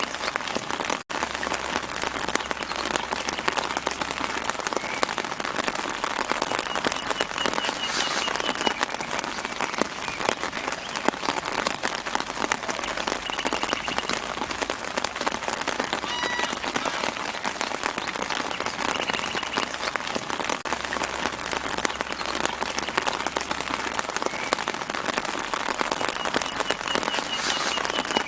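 Steady light rain falling on leaves, dense with small drop hits, with a bird's short runs of high repeated chirps in the background a few times. The sound cuts out for an instant about a second in.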